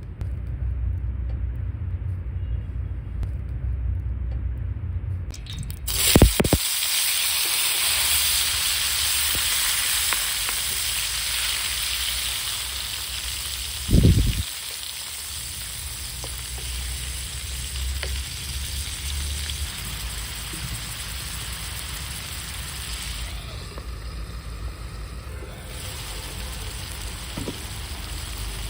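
Food frying in a hot pan: a loud sizzle starts abruptly about six seconds in, after a low rumble, and slowly dies down, with a heavy thud about halfway through.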